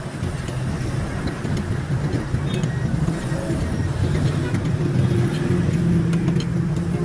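A motor vehicle's engine running on the road, a steady low rumble that grows louder over the few seconds, with a few faint clicks.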